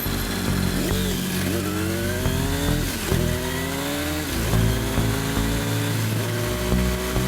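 Motorcycle engine accelerating through the gears: its pitch climbs, drops back at each shift, and climbs again several times.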